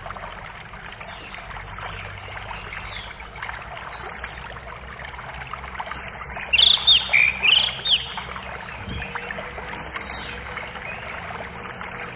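Forest birds calling over a steady rush of creek water: one bird repeats a short, very high call roughly every two seconds, and another adds a quick run of rising and falling chirps about six to seven seconds in.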